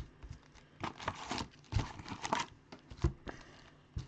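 Foil trading-card pack wrappers crinkling and tearing as packs are ripped open, in short irregular spurts of rustling with a few sharp clicks.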